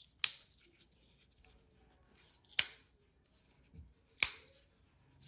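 Spyderco Stretch 2 folding knife being opened and closed by hand, giving three sharp metallic clicks of the blade and back lock over about four seconds, as its freshly adjusted pivot is tested.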